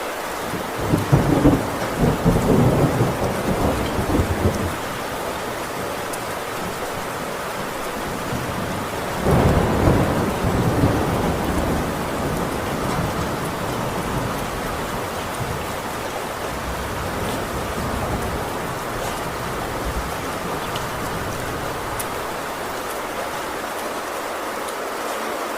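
Heavy rain falling steadily on a metal tin roof, with two rolls of thunder. The first rumbles about a second in and lasts several seconds; a second, shorter rumble comes about nine seconds in.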